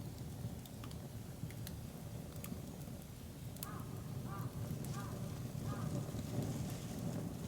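Campfire burning with a steady low rumble and sparse sharp crackles and pops. In the middle, a bird calls four times in quick succession, a short pitched note each time.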